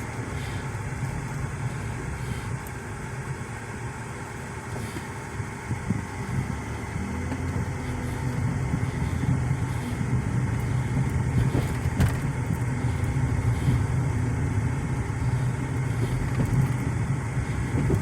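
Car engine and road noise heard from inside the moving car: a steady low rumble that grows louder about six to eight seconds in as the car picks up speed.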